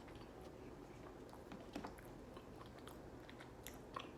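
Faint close-up chewing of Chicken McNuggets, with small scattered mouth clicks and two sharper clicks, one near the middle and one near the end.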